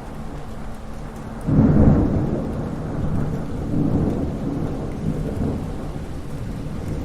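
Thunderstorm: steady rain, then about one and a half seconds in a sudden loud clap of thunder that rumbles on low and slowly fades over the following seconds.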